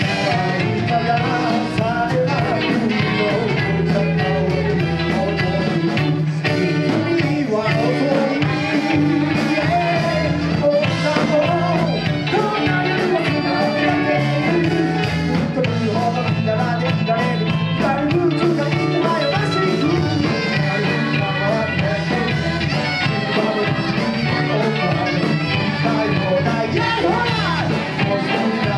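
Live band playing an upbeat boogie rock-and-roll number for twist dancing, with a singer over a steady bass line and drums.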